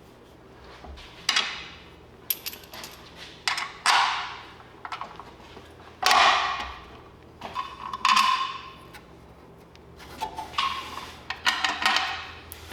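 Metal tools clinking and clanking on metal as the transmission's bell housing bolts are fitted and tightened: a string of separate sharp metallic hits at uneven intervals, some ringing briefly, with a quick cluster near the end.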